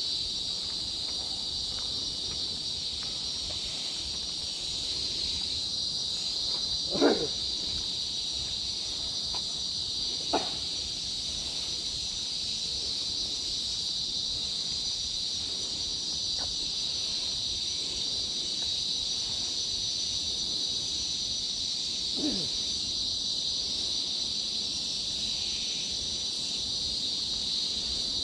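Steady high-pitched drone of a forest insect chorus. Three short sounds falling in pitch cut across it, the loudest about seven seconds in, another about three seconds later and a fainter one near the end.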